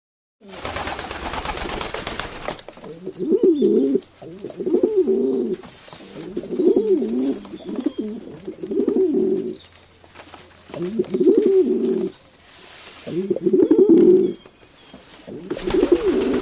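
Pigeon cooing repeatedly, about seven low warbling coos one to two seconds apart. A brief rush of hiss-like noise comes before the first coo.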